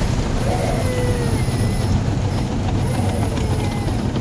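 Automatic car wash running: a loud, steady low rumble with a high hiss that swells and fades about three times, and a few faint short squeaks.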